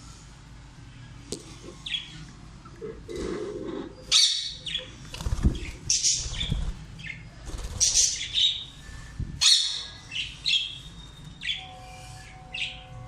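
Pet parrots calling: a few short chirps, then from about four seconds in a run of loud, harsh squawks about once a second, easing to short chirps near the end.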